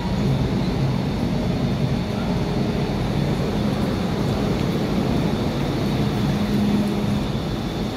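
MTR Island Line M-Train running out of the station, a steady hum and rumble of its motors and wheels.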